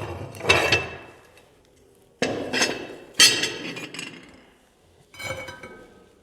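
Metal rings being lifted off a stove top and set down, clanking four times with a short metallic ring after each clank. Removing the rings opens the stove's mouth so that it can be used as a tandoor.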